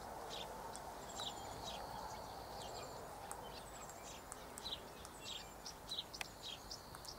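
Faint, rapid high-pitched bird chirps and short whistles, many in quick succession, over a soft steady outdoor background hum.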